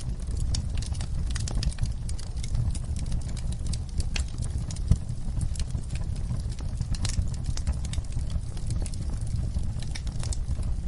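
Wood fire burning in a fireplace: irregular sharp crackles and pops over a steady low rumble of the flames, with one louder pop about five seconds in.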